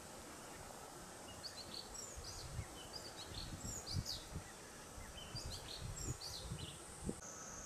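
A small bird chirping in quick runs of short, high notes, over a steady outdoor hiss, with a few low muffled thumps, the loudest about four seconds in and near the end.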